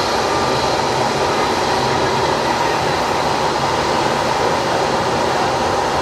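Jet aircraft engines running, a loud, steady, unbroken noise.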